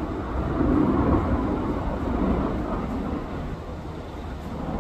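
Low rumble of a passing vehicle that swells about a second in and then slowly eases off.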